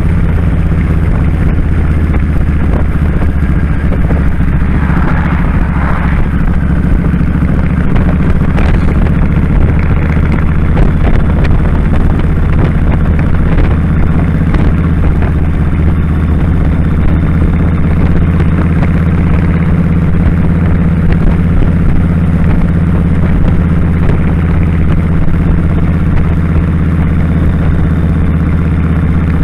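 Kawasaki Drifter 1500's V-twin engine running steadily at constant revs.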